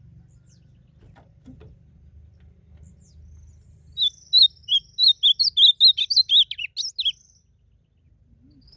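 Ultramarine grosbeak (azulão) singing one rapid, warbled song phrase that starts about four seconds in and lasts about three seconds, part of a song contest between males. A faint low rumble runs underneath.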